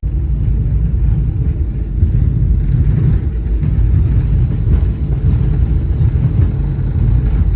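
Loud, steady low rumble of a passenger jet heard from inside the cabin; it starts and stops suddenly.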